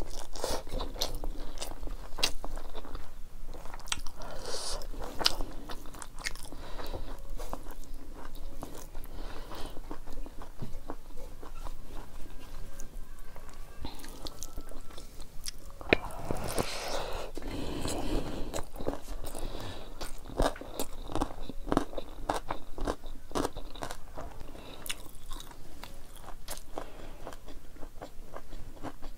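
Close-up chewing and crunching of rice and dried buffalo meat (sukuti), a steady run of short mouth clicks, with a louder spell of crunching a little past halfway.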